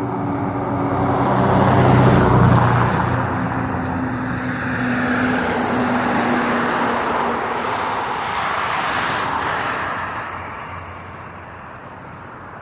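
Street traffic passing close by: a vehicle's engine hum, loudest about two seconds in, under tyre and road rush that swells and then fades near the end.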